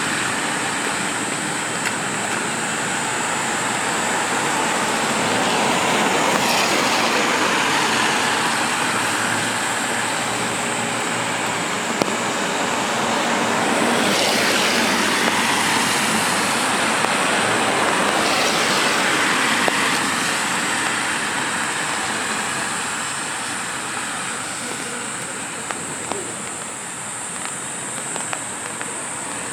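Steady rain hiss with cars passing along the wet street; the passes swell up about 6, 14 and 18 seconds in.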